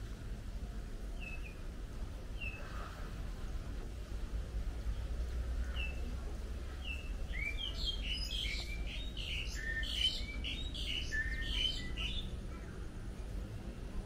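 Birds chirping: a few short, separate chirps, then a dense burst of overlapping calls from about seven to twelve seconds in.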